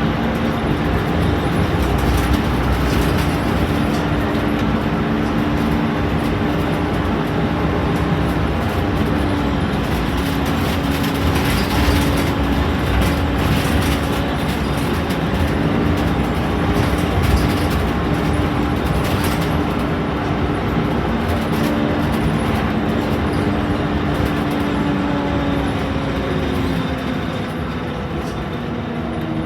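Scania K230UB Omnilink bus's five-cylinder diesel engine running under way, heard from inside the bus, with light rattles from the body. The engine note holds steady, then drops and quietens a little near the end as the bus eases off.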